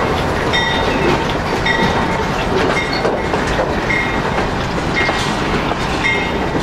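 Cars of the Canadian Pacific Holiday Train rolling past close by: a steady noise of wheels on rail, with a short high ring recurring about once a second.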